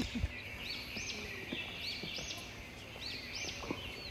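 Birds calling with repeated short chirps, several times a second, over a steady high-pitched drone, with scattered soft low thumps.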